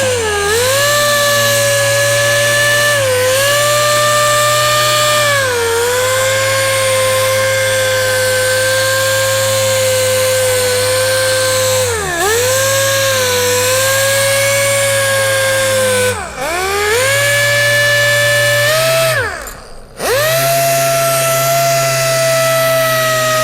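Power sander spinning a 2500-grit foam sanding disc on a plastic headlight lens, a steady whine. The pitch sags briefly several times as the disc is pressed on and then recovers. Near the end it stops for about a second and starts up again.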